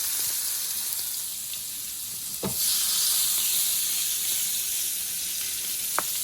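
Shrimp sizzling as they fry in a pan, a steady hiss that grows louder after a knock about two and a half seconds in. A short clink near the end.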